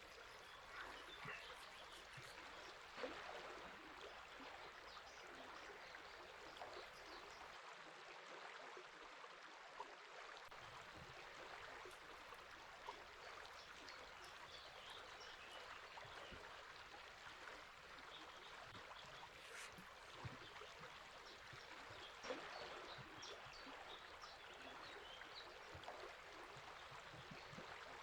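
Faint, steady rushing of river water, with scattered short bird chirps.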